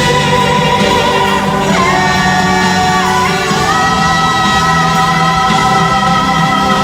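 Live pop ballad with a band accompanying a singer who holds a long, sustained high note. The note dips briefly in pitch about two seconds in and again about three seconds in, then is held steady.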